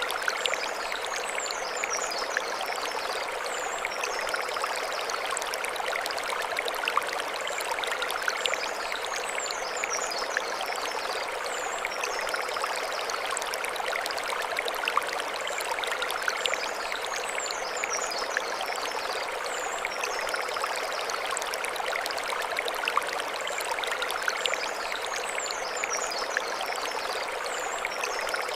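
Mountain stream flowing steadily over stones, an even rushing hiss. Over it, a short high chirping phrase comes back about every eight to nine seconds.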